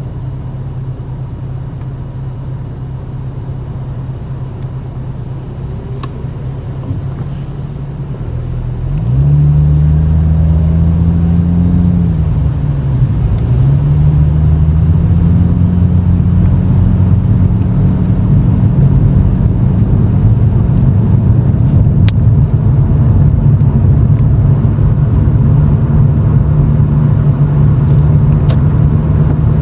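Toyota Chaser GX100's straight-six exhaust through an aftermarket Reinhart cannonball muffler with a mid-pipe silencer, heard from inside the cabin at low speed. A steady low drone, which about nine seconds in grows louder and higher as the car accelerates, dips briefly as it shifts up, then holds a louder steady drone.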